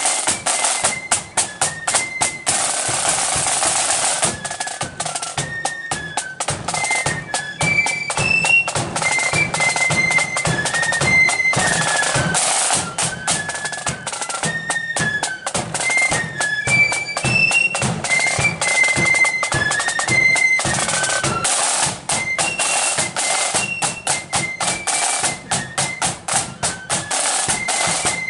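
A marching flute band plays a tune: a high flute melody over snare drum rolls and drum beats.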